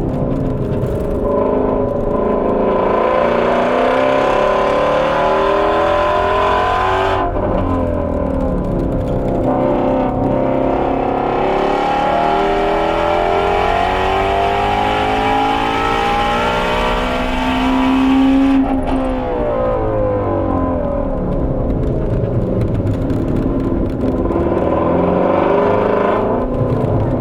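Ford Shelby GT350R's 5.2-litre flat-plane-crank V8 at full throttle on track, its pitch climbing through long pulls. It drops sharply twice, about a quarter and about two-thirds of the way through, then climbs again.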